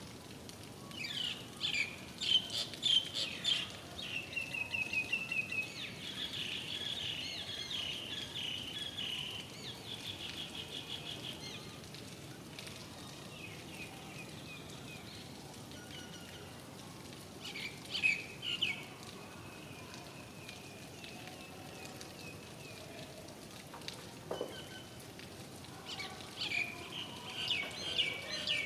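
Birds calling in bursts of rapid high chirps and trills, several times over, above a steady hiss of rain.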